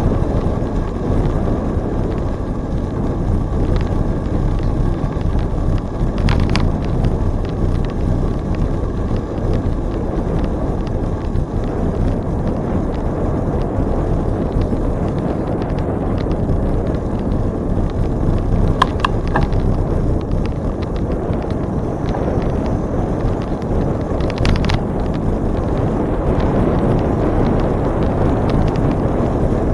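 Steady wind rushing over the microphone while riding a bicycle, with tyre and rolling noise. A brief high tone sounds twice a little past halfway.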